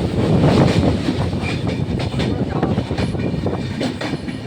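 Train running along the track: a steady rumble with many quick clicks and rattles from the wheels and cars.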